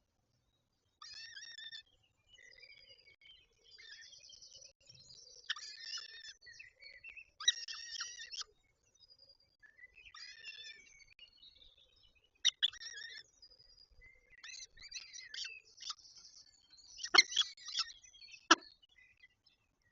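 Peregrine falcons calling at the nest: repeated bursts of high, harsh chattering calls with short gaps between them. A few sharp knocks sound near the end.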